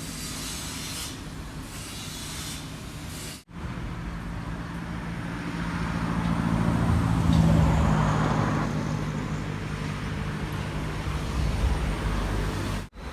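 A motor vehicle's engine running and passing by, growing louder to a peak about halfway through and then easing off. The sound drops out briefly twice.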